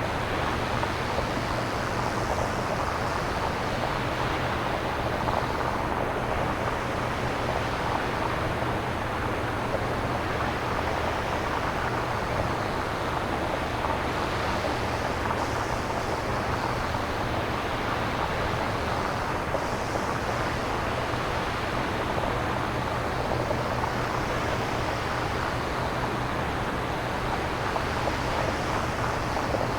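Fully synthesized nature-sound noise, a steady wash like distant surf or wind. Soft swells rise and fall in the upper range every few seconds over a low, even rumble.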